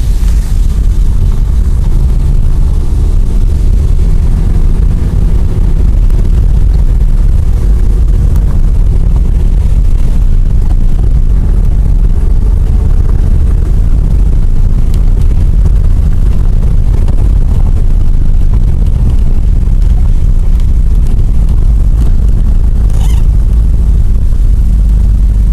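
Car driving, heard from inside the cabin: a steady, loud low rumble of engine and road noise, with a faint engine hum that wavers a little. There is a brief tick about 23 seconds in.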